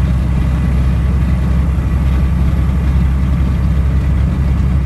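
Semi truck's diesel engine droning steadily under way, with road noise.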